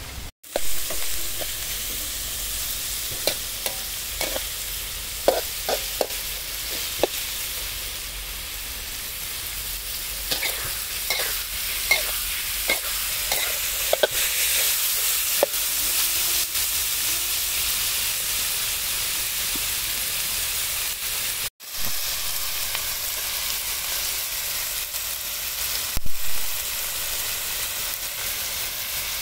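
Food sizzling as it fries in a pan, with a utensil knocking and scraping against the pan as it is stirred, mostly in the first half.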